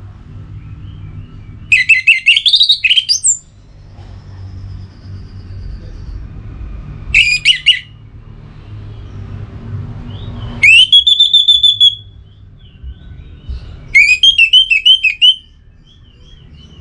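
Orange-headed thrush singing in loud phrases of quick warbled, whistled notes, four times, one of them a rising whistle held for about a second, over a faint low steady hum.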